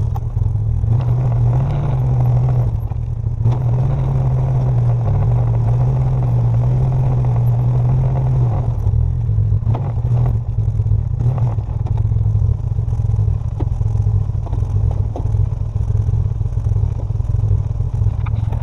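Vehicle engine running under load while pulling out a trailer that had sunk into the ground. It runs at a higher pitch for the first eight seconds or so, then settles lower, with a few knocks and rattles a couple of seconds after the drop.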